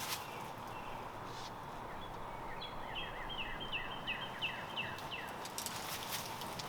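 A songbird singing a series of about eight repeated down-slurred whistled notes, about three a second, over steady outdoor hiss, with a few short clicks and rustles near the start and end.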